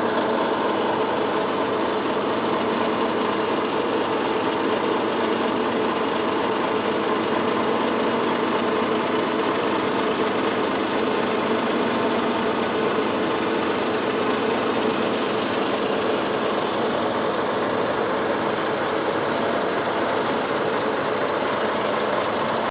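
Haier SDB heat pump running steadily, a constant mechanical sound with a faint steady tone from its compressor and fan.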